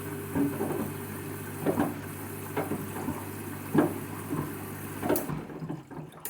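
Candy washing machine filling for its main wash: water running into the drum with irregular splashing over a steady low hum. It cuts off suddenly near the end as the fill stops.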